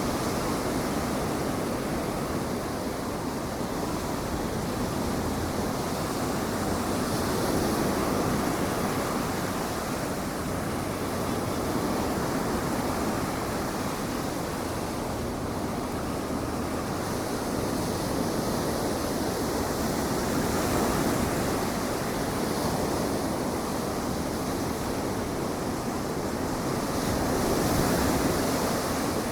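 Ocean surf breaking and washing ashore, a steady rush of noise that swells and eases with the waves, with some wind on the microphone.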